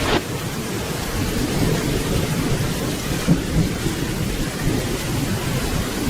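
Steady rainfall with a low, rolling rumble of thunder underneath, and a short sharp crackle right at the start.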